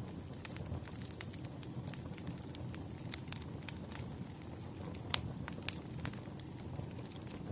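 Wood fire burning: a steady low rush with frequent crackles and snaps, and one sharp, louder pop about five seconds in.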